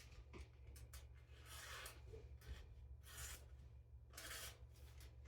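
Faint swishes of a freshly sharpened chef's knife slicing through thin paper, three short strokes about a second apart.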